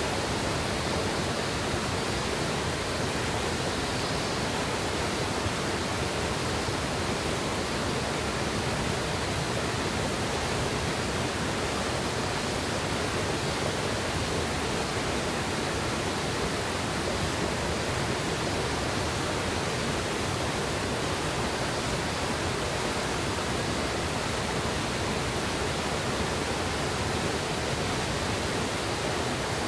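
Mountain river water rushing steadily over rocks, a constant even roar with no changes.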